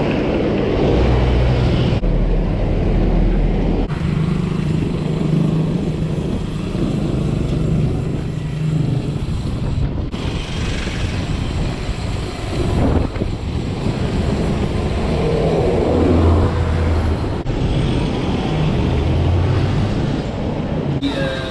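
Wind buffeting a bike-mounted POV camera's microphone, with tyre and road rumble from a mountain bike being ridden; the noise cuts off abruptly a few times.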